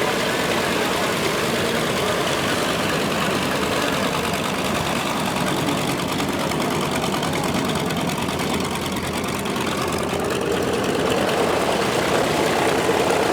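TBM Avenger's Wright R-2600 fourteen-cylinder radial engine idling steadily on the ground, getting slightly louder near the end.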